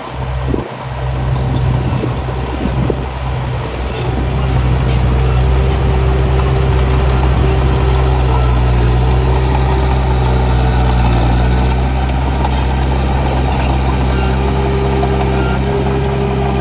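Heavy diesel engine of an earthmoving machine running steadily and loud, building up over the first few seconds. A higher whine comes and goes over it, and there are a few knocks at the start.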